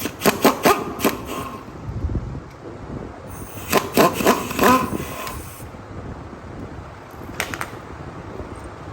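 Metal tools working on a 6.2 L V8 being torn down: three bursts of sharp metallic clanks with a short ring, near the start, in the middle and briefly near the end, the middle burst the loudest.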